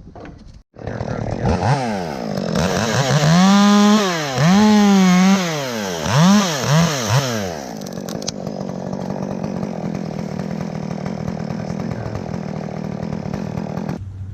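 Two-stroke chainsaw revving up and held at high revs twice, then blipped three times in quick succession, then settling to a steady idle that cuts off abruptly near the end.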